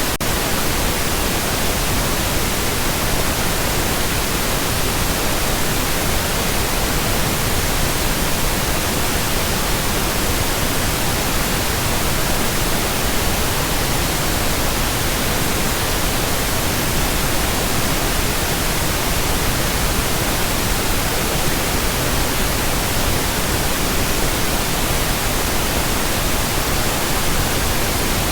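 Steady pink noise: an even, unchanging hiss across the whole range of pitch, with no breaks.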